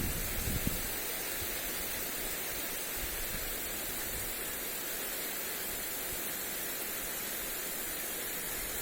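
Lawn sprinkler spraying water onto grass: a steady, even hiss. A brief low rumble of wind on the microphone sounds in the first second.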